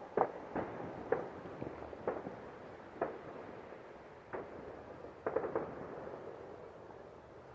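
Fireworks going off: about ten irregular bangs and pops, thinning out and stopping about six seconds in.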